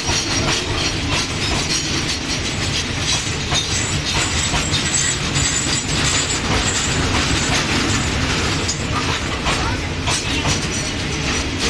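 Train running on the rails with a steady clatter of wheels over the track. A thin high-pitched squeal comes and goes, strongest in the middle.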